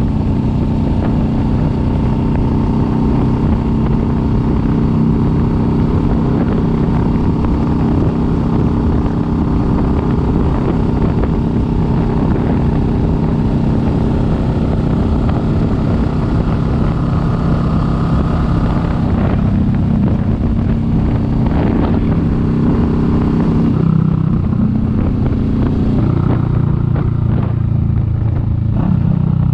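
Kawasaki Vulcan S 650's parallel-twin engine running steadily under way. The engine note drops and changes about 24 seconds in.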